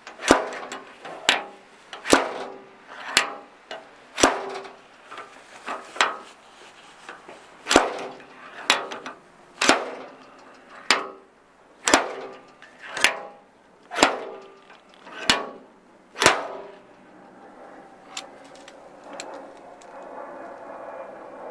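Body hammer tapping out a dent in the steel door skin of a 1986 Ford Mustang, about one strike a second, each with a short metallic ring. The strikes stop about three-quarters of the way through, leaving a faint steady rumble.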